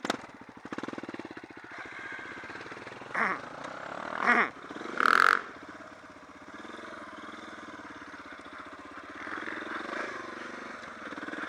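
Suzuki DR650 dual-sport motorcycle engine running on the move, heard from on the bike. Three short, louder bursts come between about three and five seconds in.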